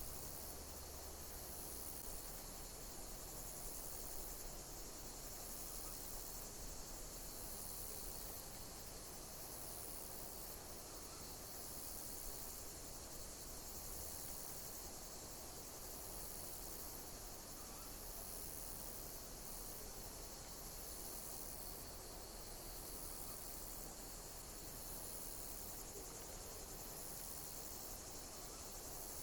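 Insects chirping in a steady, high-pitched chorus, with a higher pulsing call repeating roughly every second or so over it.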